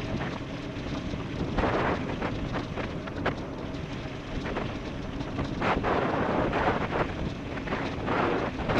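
Rushing wind buffeting the microphone of a fast-moving e-bike, a loud noisy roar that swells in gusts every few seconds.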